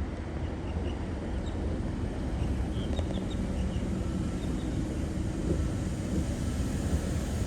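V-set double-deck electric train approaching a station platform: a steady low rumble, with a faint whine coming in about halfway through. A few faint high chirps sound over it.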